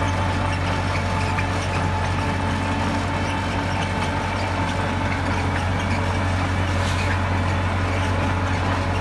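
Heavy diesel construction machinery running steadily, a constant low engine drone with no revving or change in level.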